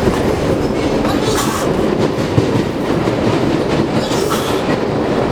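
R62 subway train running along the track: a steady, loud rumble with wheels clattering on the rails, and two brief high hisses about a second in and near the end.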